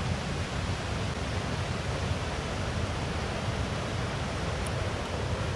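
Steady rushing noise of riding a recumbent bicycle: wind buffeting the microphone over the rumble of tyres rolling on the trail, even throughout with no distinct events.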